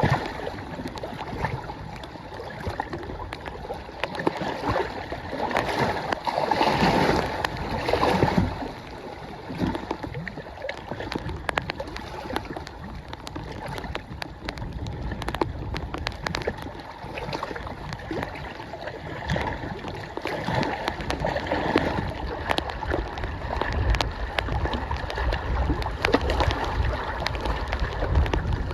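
Wind-driven waves splashing and lapping at the lakeshore, with gusts of strong wind buffeting the microphone and scattered sharp ticks of spray or raindrops.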